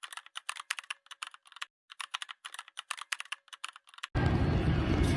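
Rapid, irregular keyboard typing clicks with a brief pause midway. About four seconds in, the typing cuts off suddenly and a loud, steady, low rumbling outdoor noise takes over.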